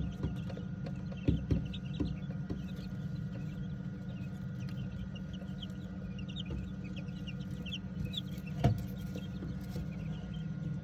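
Newly hatched quail chicks peeping: many short, high cheeps overlapping, over a steady low hum. A couple of knocks, one about a second in and one near the end.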